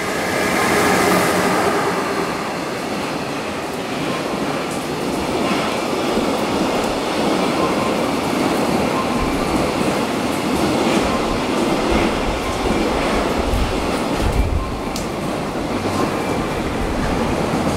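A JR Freight EF66 electric locomotive passes close by at speed, loudest in the first couple of seconds, followed by a long container train running past. Its wheels make a continuous rushing rumble with rapid clacks over the rail joints.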